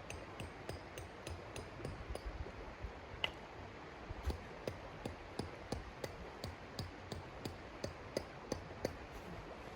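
Wood fire crackling in a stove, with sharp pops and clicks a few times a second over a low steady rumble.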